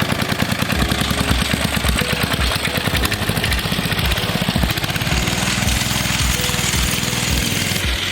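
Small 2.5-horsepower single-cylinder engine on a homemade mini bike running, a steady rapid chatter of firing pulses.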